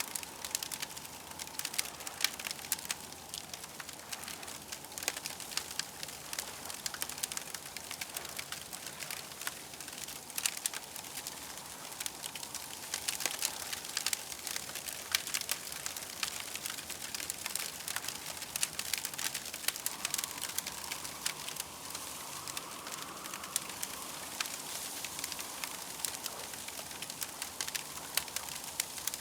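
Campfire crackling steadily with dense small pops and snaps. A faint wavering whistle sits underneath and grows a little stronger about two-thirds of the way through.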